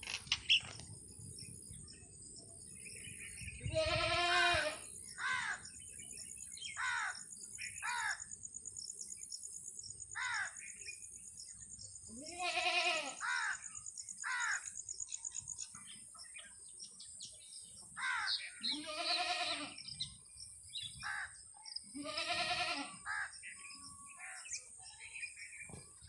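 Birds calling: many short, falling chirps, and four loud, drawn-out calls of about a second each that stand out above them, all over a steady high-pitched buzz.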